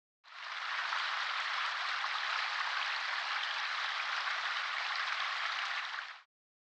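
Steady, even pattering hiss like rain on a surface. It fades in just after the start and stops abruptly about six seconds later.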